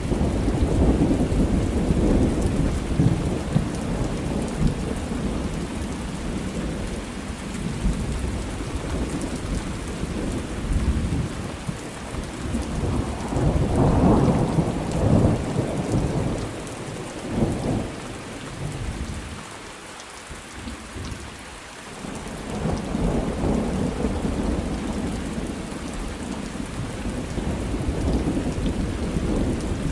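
Steady rain with rolling thunder, the rumbles swelling and fading several times, heaviest at the start and again about halfway through, with a short lull before a last swell.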